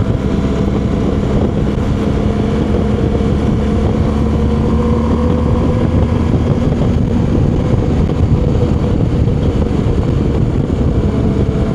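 Motorcycle engine running at a steady cruising speed, with wind rushing over the rider's microphone.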